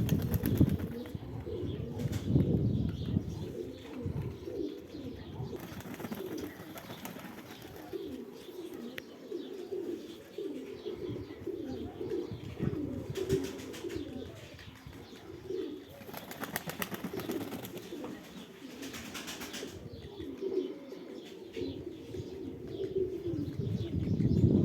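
Sverdlovsk high-flying pigeons cooing over and over, a run of short low burbling calls, with a few stretches of rustling noise.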